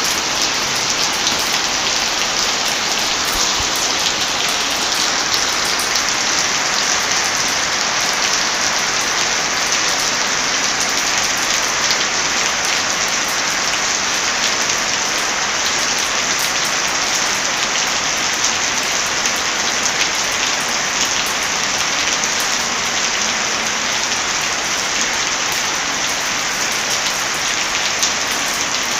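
Heavy rain falling steadily: a dense, even hiss of rain with many small drop ticks.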